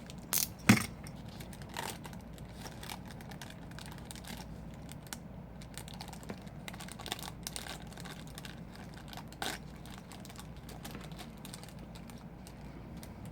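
Scattered light clicks and taps with some crinkling, from small tools and parts being handled while an iPhone 5's power-button flex cable is replaced. A sharp click just under a second in is the loudest, with another single click near 9.5 seconds.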